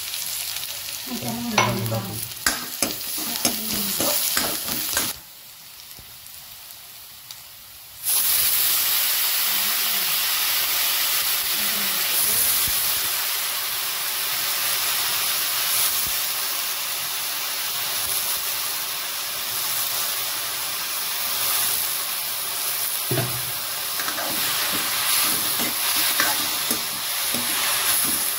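Chopped onion and dried red chillies frying in a kadai, with spatula clicks and scrapes. About eight seconds in, after a brief quieter moment, a loud steady sizzle starts as small wild mushrooms fry and steam in the hot oil. The spatula stirs them again near the end.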